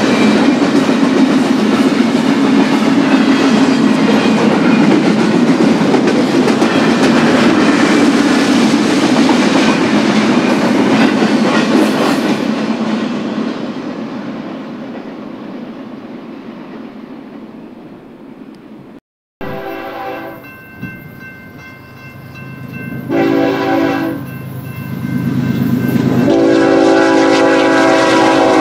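Freight train cars rolling past loudly, then fading away as the train moves off. After a cut, a locomotive horn sounds a short blast and then a long one near the end as the next train approaches.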